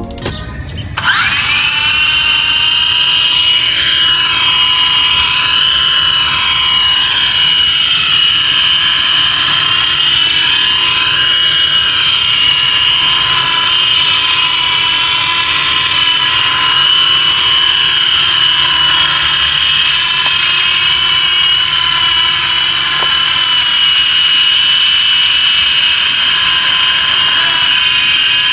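Small electric motor of a homemade soda-can toy helicopter spinning up about a second in, then running at a steady high-pitched whine.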